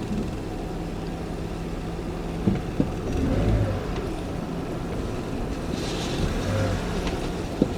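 Steady low vehicle noise, a motor running, with a few sharp clicks.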